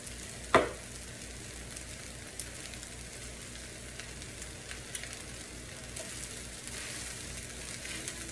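Fried rice sizzling in an electric skillet while a wooden spatula stirs and scrapes through it, with one brief sharp knock about half a second in and a few light clicks after.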